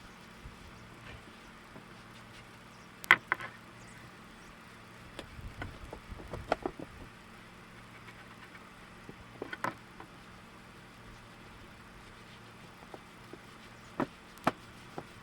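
Scattered light knocks and clicks from handling wooden boards while rubbing boiled linseed oil into them, over a faint steady hum. The sharpest knock comes about three seconds in, with a small cluster in the middle and a few more near the end.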